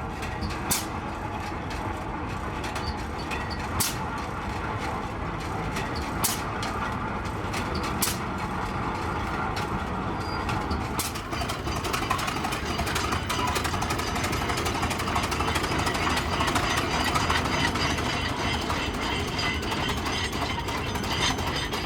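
Engine-driven machinery running with a steady mechanical rumble. There are five sharp clicks in the first half, and it turns busier and more rattly in the second half.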